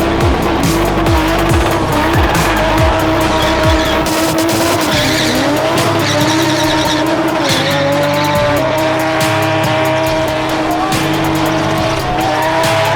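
Spin car doing donuts, its engine held at high revs while the rear tyres squeal in a wavering, sustained screech.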